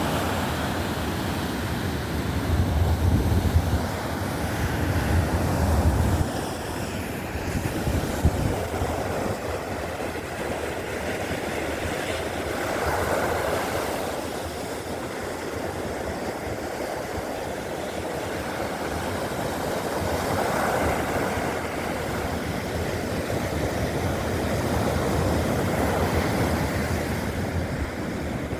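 Baltic Sea surf washing onto the beach, waves swelling and breaking every several seconds. Wind buffets the microphone with low rumbles in the first few seconds.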